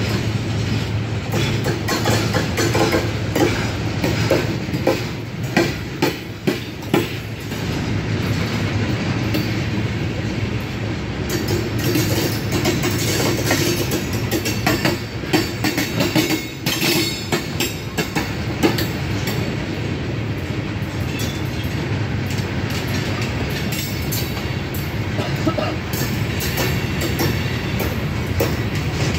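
Railroad cars rolling past, their steel wheels clicking over rail joints again and again over a steady low rumble.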